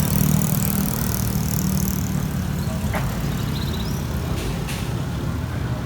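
Steady rumble of passing road traffic, with a few faint, quick bird chirps about three and a half seconds in.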